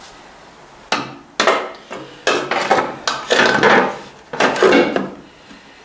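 Metal parts being handled: a run of clinks, knocks and scrapes starting about a second in, as a small metal oil line is test-fitted on a tractor engine.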